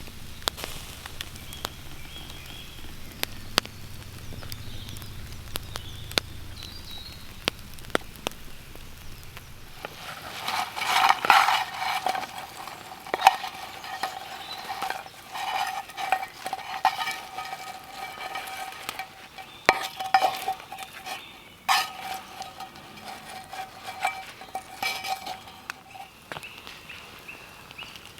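Pork and chips frying on a grill over a campfire: steady sizzling with sharp crackles and clicks, busier from about ten seconds in, when a steady high note comes and goes.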